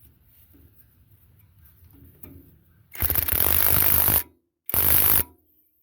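Impact wrench run in two bursts, about a second long and then a short one, driving the nut onto a tiller tine bolt.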